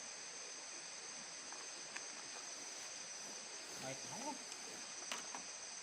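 Steady night chorus of crickets and other insects, a constant high shrill. A faint voice sounds briefly about four seconds in, and there are a few light clicks.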